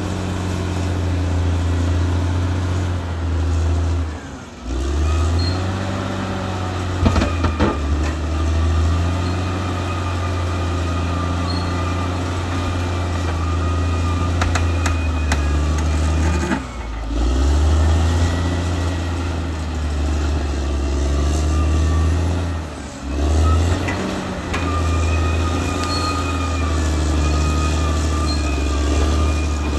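Caterpillar D6R XL bulldozer's diesel engine running under load with a deep steady drone. The engine dips briefly three times, a few sharp clanks come about seven to eight seconds in, and a faint high wavering whine rides over it.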